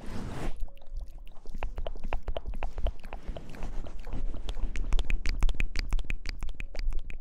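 Wet, crackling squishes of hair being lathered and rubbed close to the microphone, dense and irregular, after a brief hiss at the start.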